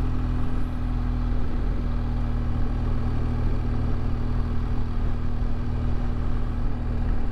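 BMW R1200GS LC motorcycle's boxer-twin engine running at a steady speed on the road. The engine note holds even, with no revving or gear changes.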